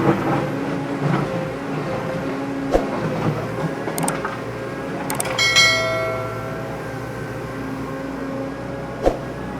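A small electric motor runs steadily, with a few sharp knocks. About halfway through, a metallic clang rings out and fades over a second or so.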